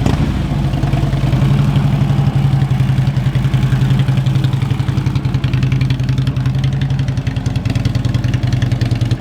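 Harley-Davidson Road King's V-twin engine running at a steady speed, with a fast, even pulse. A sharp click right at the start.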